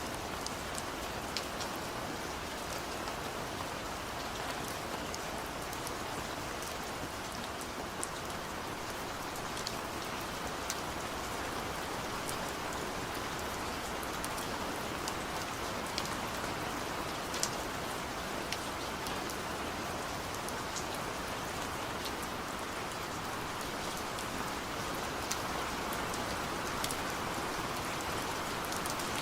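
Steady rain falling, with an even hiss and individual drops ticking sharply on a surface here and there.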